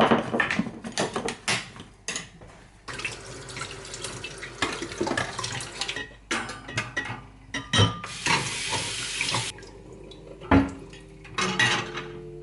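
Kitchen tap running into a sink in two spells, about three seconds then a second and a half, with dishes and utensils clattering and knocking in between.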